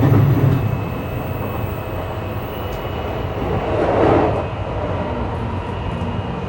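Running noise inside a JR East E235-1000 series electric train at speed: a steady low rumble of wheels on rail, with a brief swell of louder noise about four seconds in.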